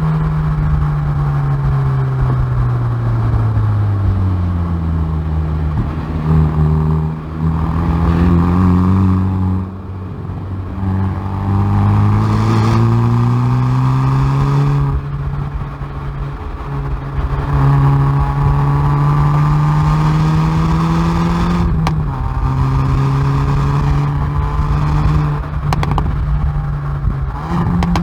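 Hyundai i30N Performance's turbocharged 2.0-litre four-cylinder engine and exhaust driven hard on a circuit. The engine note falls under braking, stepping up with downshifts, then climbs through the revs under acceleration with upshifts that drop the pitch, and a few sharp cracks come from the exhaust at the shifts.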